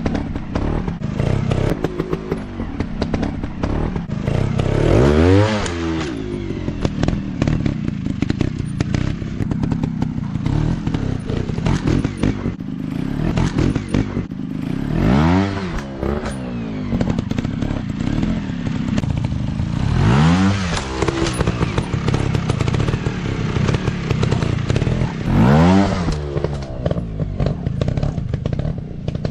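Dirt bike engines running with a rough, clattery drone. The engine pitch swells up and back down four times, as a bike is revved or ridden past.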